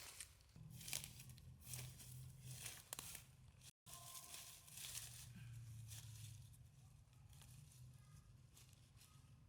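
Faint rustling and crinkling handling noises, a run of short crackly strokes in the first few seconds, then a low steady hum after a sudden cut.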